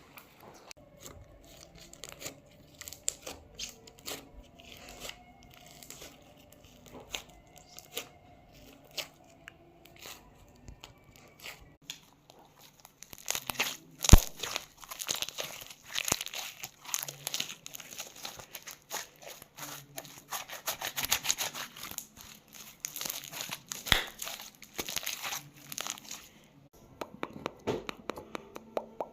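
Close-up crinkling and crackling of something being handled, with scattered soft clicks at first, then dense crinkling about halfway through that stops a few seconds before the end; one sharp click comes just after the dense part begins.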